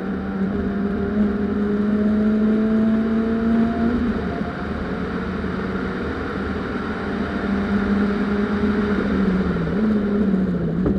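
Peugeot 206's 1.6-litre four-cylinder engine pulling hard under full throttle, heard from on board. The engine note climbs for the first few seconds, dips briefly about four seconds in, holds steady, then wavers and drops near the end.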